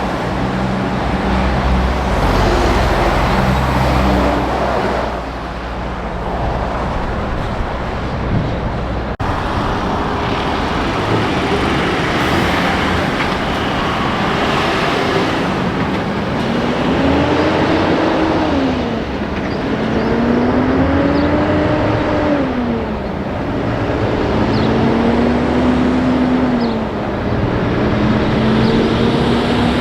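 Heavy trucks' diesel engines and tyre noise on the highway. In the second half an engine climbs in pitch and drops again several times in a row: a truck pulling away and working up through its gears.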